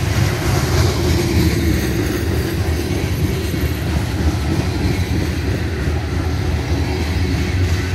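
Covered hopper cars of a freight grain train rolling past: a steady rumble of steel wheels on the rails.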